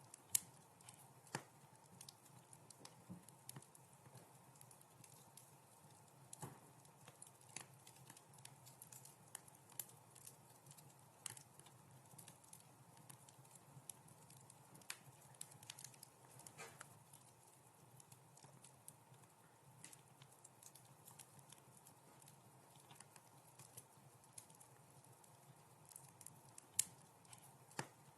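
Wood fire crackling in a fireplace: irregular sharp pops and snaps over a faint steady hiss, with a louder pop just after the start and another near the end.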